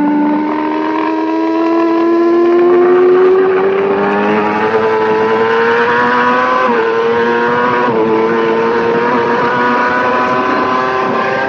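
Racing motorcycle engine heard from on board, revs climbing steadily as it accelerates out of a corner. Its pitch dips briefly twice, about six and a half and eight seconds in, as it shifts up, then holds high and steady.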